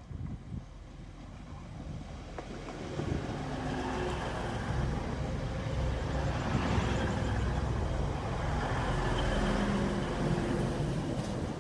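TransPennine Express Class 185 diesel multiple unit pulling into the platform and passing close by. Its underfloor diesel engines and its wheels on the rails rumble, growing louder as it comes alongside.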